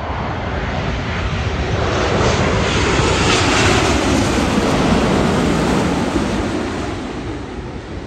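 Jet engines of a large airliner on landing approach passing close overhead: a rushing roar that builds to a peak a few seconds in and then fades away.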